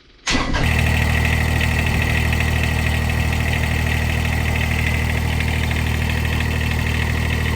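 Kubota BX1880 subcompact tractor's three-cylinder diesel engine idling steadily; the sound comes in abruptly just after the start.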